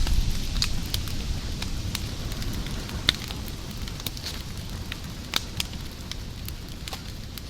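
Fire crackling: sharp pops about every second, the loudest about three seconds in, over a low rumble that slowly eases.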